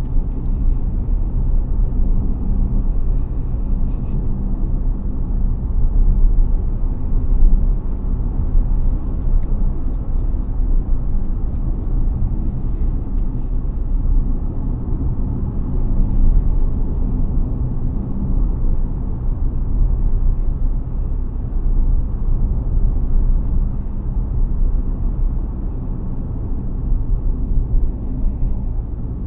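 BAIC BJ30e hybrid SUV on the move: a steady low rumble of road and drivetrain noise.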